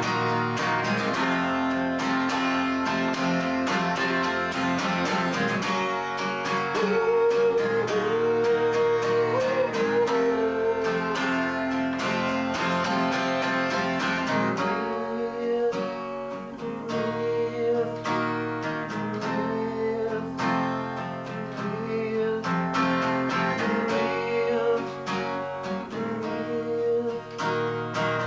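Acoustic guitar strummed and picked through a song. From about seven seconds in, a wavering melody line is held above the chords. Recorded on a basic VHS camcorder microphone.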